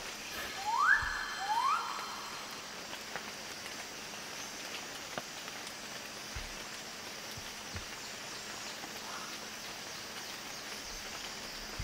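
Two quick rising calls from a bird of paradise, about half a second apart, followed by a steady hiss of rainforest background.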